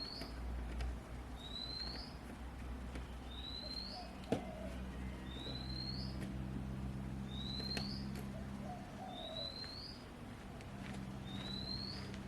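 A bird repeating a short, rising whistle about every two seconds, over a low steady hum, with a sharp click about four seconds in.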